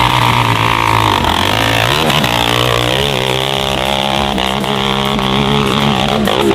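Dirt bike engine running hard at high revs, its pitch wavering up and down as the throttle is worked.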